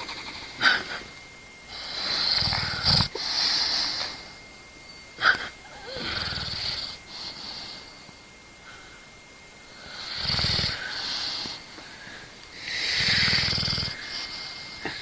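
Dog snoring in slow, deep breaths, four snores about four seconds apart, with a few short, sharp snorts in between early on.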